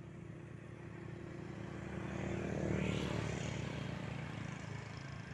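A motor vehicle passing by, its engine hum and tyre rush growing louder to a peak about halfway through and then fading as the pitch drops.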